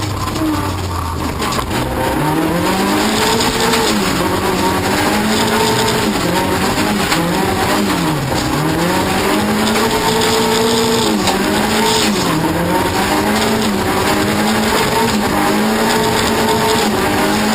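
Race car engine being driven hard. Its pitch climbs about two seconds in, then holds high with repeated drops and climbs as the car lifts off and accelerates again, with the deepest drop about eight seconds in.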